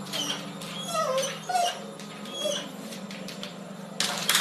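A pet dog whimpering: several short, high whines that slide up and down in pitch.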